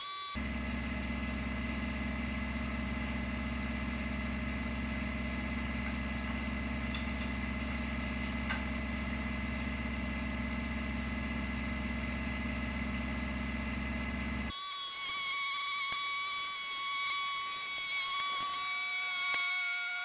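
Tractor engine running at a steady speed while pushing a front-mounted rake. About two-thirds of the way through, the engine sound cuts off and a few high, thin whining tones remain, one of them sliding in pitch near the end.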